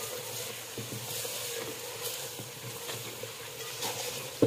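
Chopped onions and tomatoes sizzling in hot ghee in a metal pot, with a spatula stirring and scraping through them. A sharp knock of the spatula against the pot comes near the end.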